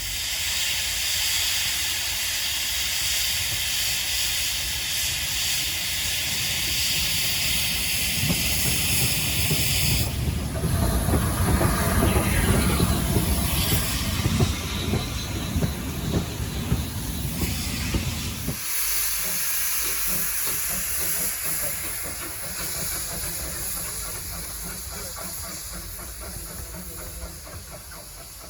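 Steam locomotive blowing off steam with a loud, steady hiss that stops abruptly about ten seconds in. A heavy low rumble from the locomotive runs from just before then and cuts off sharply a little after halfway, leaving a fainter hiss that fades away.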